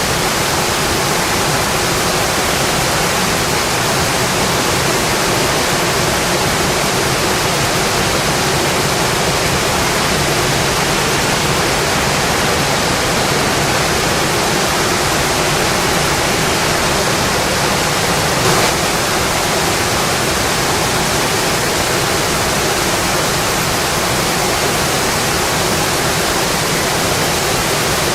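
Rain falling steadily, an even, unbroken hiss, with one faint tick about two-thirds of the way through.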